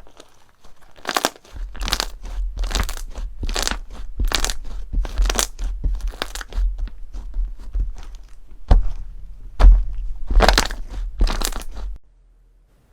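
Crunchy slime being squeezed and pressed by hand: about a dozen crackling crunches, roughly one a second, with two short sharp snaps among them, stopping near the end.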